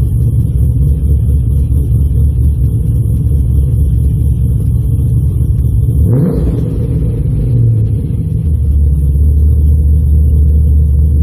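2015 Holden Commodore VF SS's L77 6.0 L V8 with a custom-ground camshaft and full aftermarket exhaust idling after a cold start with a steady rumble. About six seconds in it is blipped once, the revs rising quickly and falling back to idle.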